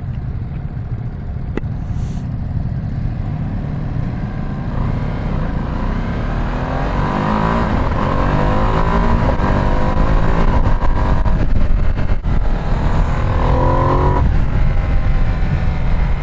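Ducati Streetfighter V2S L-twin engine running while riding, over a steady low rumble. The revs climb and the engine gets louder from about six seconds in, and it pulls up again briefly near the end.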